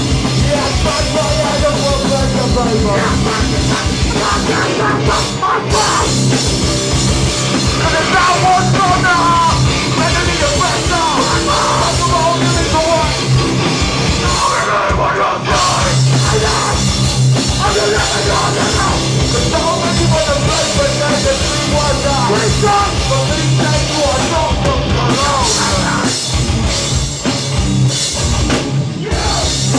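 Hardcore band playing loud and live: heavily distorted guitars and bass over fast, pounding drums.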